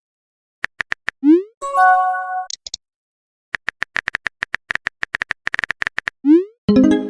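Electronic synth music made of sharp clicks, a quick rising synth glide and a short held chord, followed by a long rapid run of clicks. The glide and chord come back near the end as the phrase repeats.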